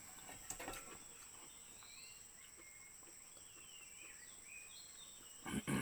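Faint rural ambience: a steady high-pitched insect drone, with soft warbling bird calls in the middle and a few light clicks about half a second in.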